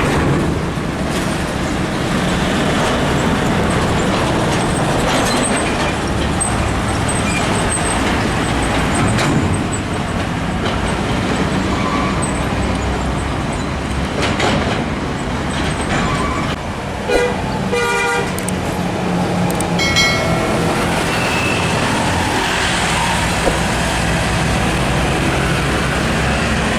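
Heavy trucks passing in steady traffic, engines and tyres running continuously. About two-thirds of the way through, horns sound: first a rapid pulsing toot, then a short held blast.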